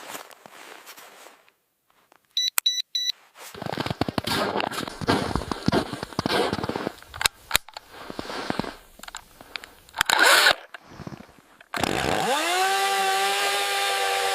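A few short electronic beeps, then a stretch of crunching and rustling. About twelve seconds in, a battery-powered mini-chainsaw spins up with a rising whine and runs at a steady pitch.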